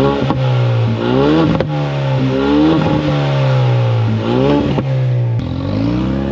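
Turbocharged 2.3-litre four-cylinder of a 2021 Mustang EcoBoost with its mufflers deleted, accelerating hard through the gears. The engine note climbs and then drops sharply at each shift, about four times.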